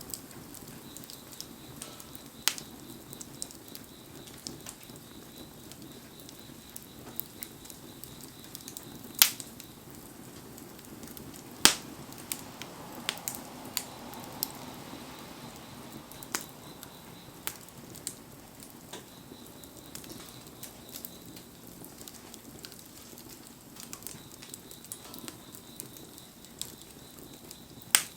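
Wood bonfire crackling, with many scattered sharp pops and a few loud snaps, about 9 s in, about 12 s in and at the very end, over a steady hiss.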